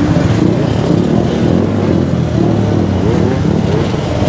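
Gas-powered scooter engines running together, with a few short rising revs around the middle.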